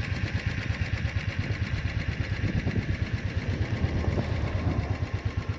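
Royal Enfield motorcycle engine running steadily, with a fast, even exhaust beat.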